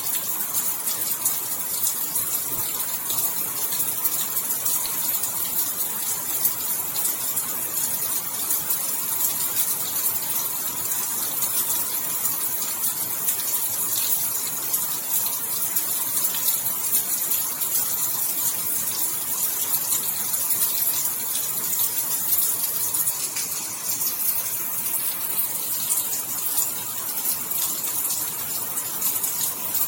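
Steady heavy rain: a dense, even hiss of falling rain with many small drop ticks.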